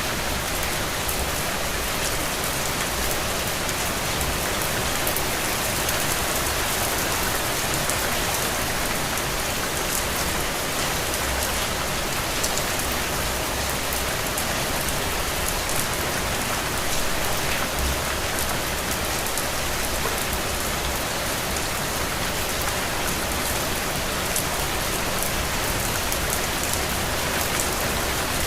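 Steady rain falling, a dense even hiss with many small drops pattering on surfaces.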